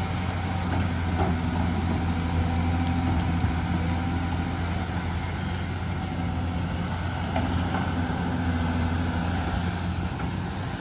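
Hyundai excavator's diesel engine running steadily at one pitch, with a few faint clicks of the machine working.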